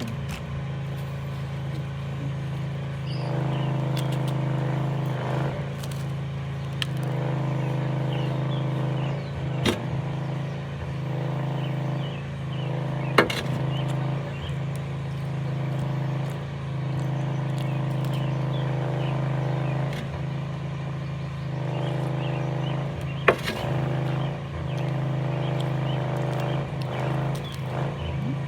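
A steady engine drone from machinery at work nearby, growing stronger and easing off every few seconds, with a few sharp clicks and knocks on top.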